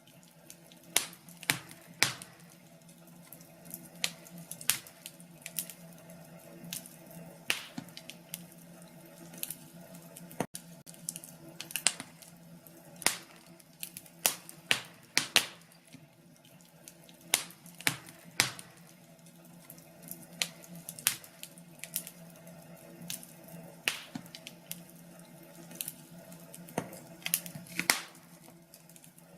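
Wood fire crackling in a fireplace: irregular sharp pops and snaps, some in quick clusters of two or three, over a steady low hum.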